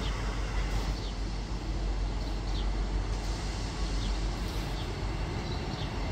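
Train running past on the line: a steady low rumble, with faint short high chirps every second or so.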